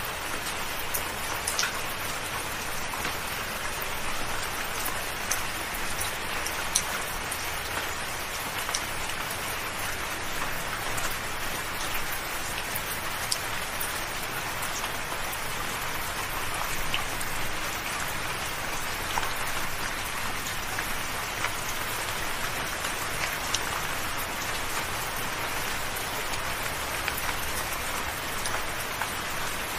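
Steady soft rain: a continuous even hiss with many small drop ticks scattered through it.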